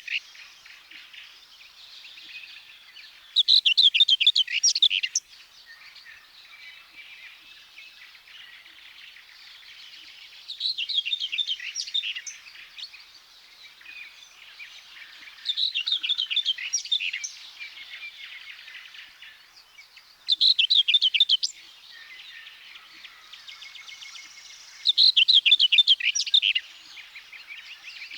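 Common whitethroat (Sylvia communis) singing its short, scratchy warbling phrase. Five phrases of about one and a half to two seconds each come roughly every five seconds, with faint chatter of other birds in between.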